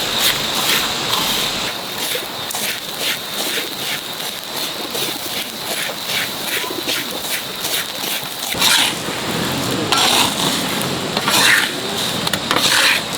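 Kitchen utensils and dishes being handled: a run of light clicks and knocks, about two or three a second, then a few longer scraping sounds near the end.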